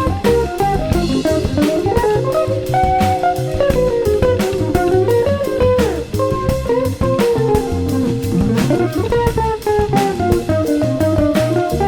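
Instrumental band music: a plucked guitar melody over bass guitar and a drum kit keeping a steady beat.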